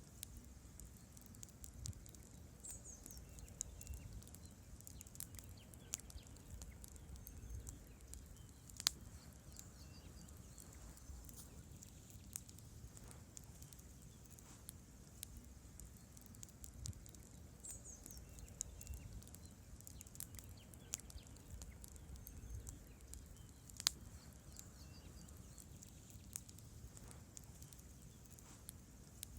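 Wood campfire burning, logs crackling with irregular sharp pops over a low steady hum of the flames; two pops, about nine seconds in and near the end, are louder than the rest.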